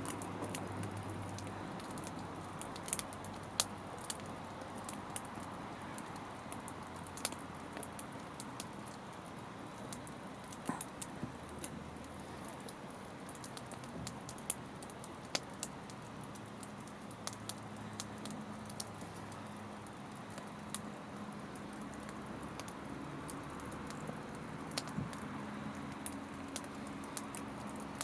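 Wood campfire crackling: irregular sharp snaps and pops over a steady soft hiss.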